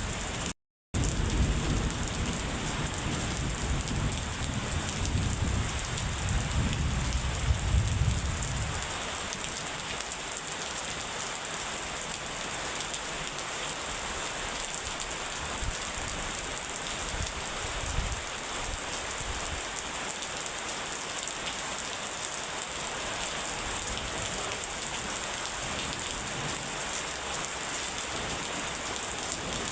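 Steady heavy rain with a low thunder rumble that rolls on for the first several seconds and dies away about nine seconds in, leaving the rain alone. The sound cuts out briefly just under a second in.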